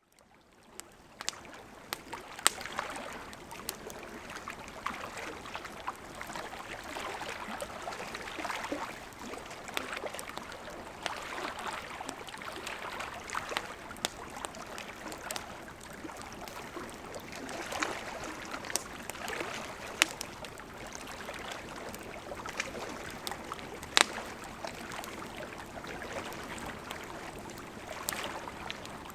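Wood campfire crackling, with irregular sharp pops, a few of them loud, over the steady rushing of a gently flowing river.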